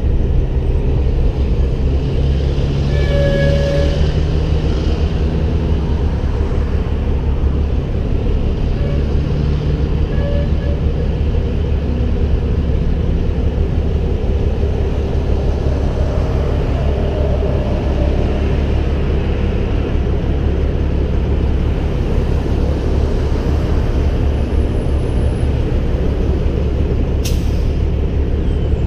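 Heavy diesel engine running steadily with a deep low drone, with a brief faint squeal about three seconds in and a sharp click near the end.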